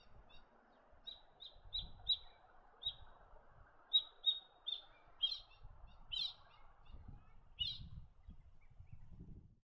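White-breasted woodswallow calling: a run of about a dozen short, sharp chirps. A few louder, harsher ones come in the second half.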